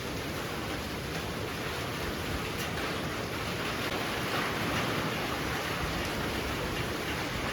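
Heavy rain pouring down, a steady dense hiss that swells a little about halfway through.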